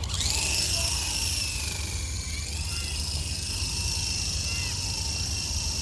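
Toy RC helicopter's electric motor and rotor giving a steady high whine in flight, its pitch drifting slightly as the throttle changes.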